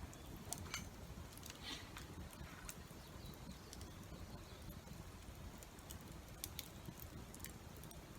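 Wood fire crackling faintly: sparse, irregular sharp pops over a steady low rumble.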